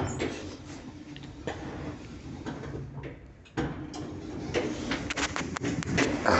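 Kone lift running: a steady low hum under a string of clicks and rattles, which starts again more loudly about three and a half seconds in and grows busier toward the end.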